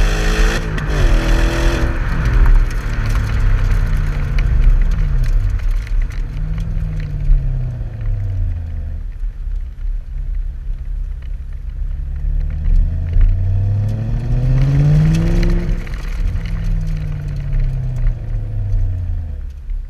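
2003 Audi S4's 4.2-litre V8 through an un-resonated Powerflow stainless exhaust, revving: it falls from high revs at the start, rises and falls briefly in the middle, then climbs slowly to a peak and drops back before fading near the end.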